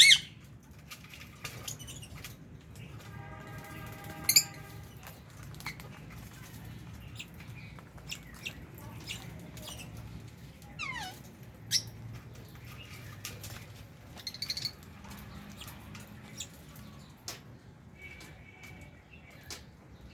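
A flock of lovebirds and budgies chirping: short, sharp, high calls scattered throughout. A held, buzzy call comes about three seconds in, a falling chirp follows near eleven seconds, and a few louder shrill chirps stand out, the loudest right at the start.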